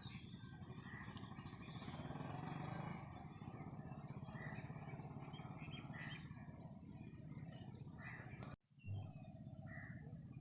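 Birds chirping in short calls over a steady, high-pitched buzz that pulses in level. The sound drops out for a moment near the end.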